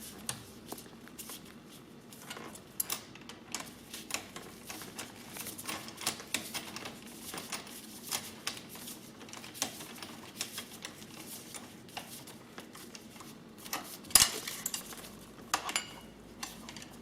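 Hand tools, an Allen key and a spanner, clicking and clinking lightly against the metal handlebar clamp bolts as they are worked, with a couple of sharper clinks near the end.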